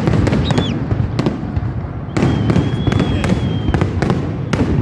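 Fireworks display: a rapid run of loud bangs and shell bursts over a continuous rumble. A short falling high whistle comes about half a second in, and a steady high whistle holds for about a second and a half midway.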